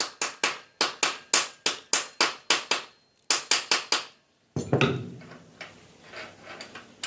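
Rapid hammer blows on metal, about four to five a second, in two runs with a short pause about three seconds in. They are followed by a louder knock and some rattling.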